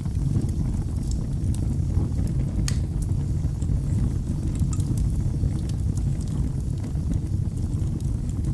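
Wood fire in a fireplace burning with a steady low rumble and scattered sharp crackles and pops, one louder pop a little under three seconds in.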